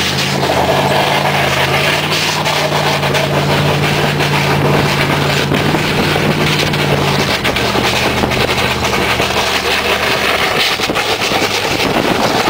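Lifted Chevrolet Silverado pickup with a Flowmaster exhaust running under way as it tows a water heater on a chain. The engine note holds steady, shifts about seven seconds in and fades near the end, under a constant rough rushing noise.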